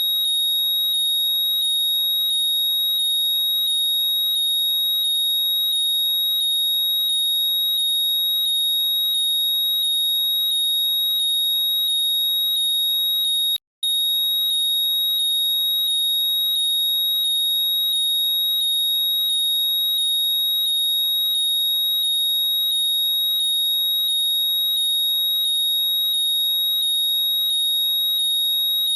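Apple AirPods 'Find My' locator sound, played on a loop: a loud, shrill steady tone with rapidly repeating chirps over it, broken by a momentary gap about 14 seconds in.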